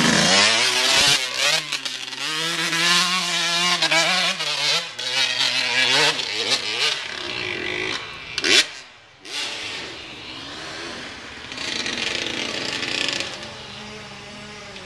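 An engine running and revving, its pitch rising and falling, with one brief loud rev about eight seconds in before it drops back to a quieter, steadier run.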